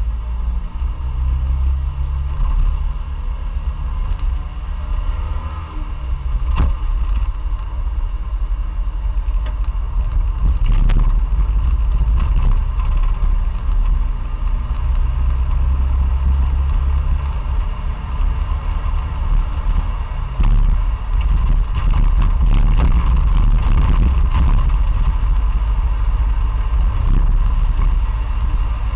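Classic Fiat 500's air-cooled two-cylinder engine running as the car drives along, with a steady low rumble and a couple of brief clicks.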